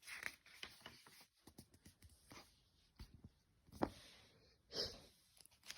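Faint rustling and light clicks of a picture book being handled and its page turned, with a sharper tap about four seconds in and a brief papery swish just after.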